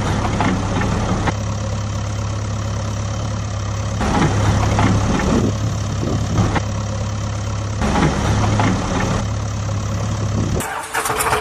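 Vehicle engine idling with a steady low hum, with a few short rattling or scraping noises over it; the sound cuts off abruptly near the end.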